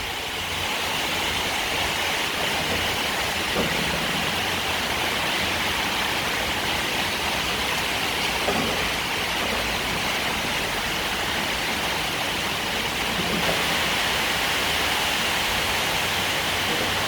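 Torrential rain pouring down in a steady, even rush of water noise.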